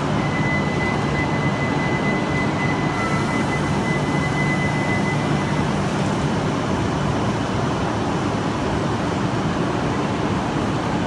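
Shinkansen train noise at an underground station platform: a steady, loud rumble with a low hum and a thin high whine during the first five seconds or so.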